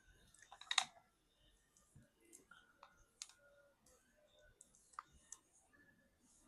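Faint, scattered clicks and light knocks from a phone and its clamp being handled as the freshly glued screen is clamped to the back. The loudest cluster comes about a second in, with single clicks later on.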